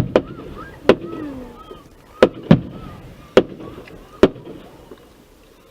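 Aerial fireworks going off in a volley of about seven sharp bangs over four seconds, some following close on one another, with an echo after the reports. They die away near the end.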